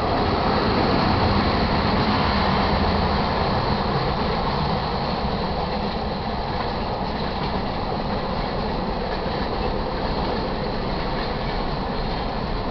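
Freight train cars (tank cars, boxcars, gondolas) rolling past: a steady rumble and rattle of steel wheels on rail, a little louder in the first few seconds.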